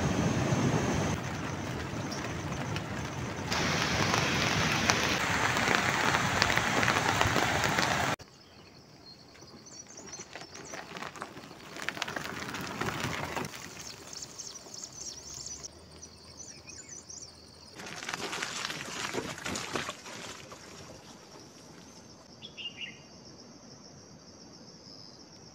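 Heavy rain as a steady, loud hiss, which cuts off suddenly after about eight seconds to a quieter outdoor ambience with birds chirping now and then and a few brief stretches of louder noise.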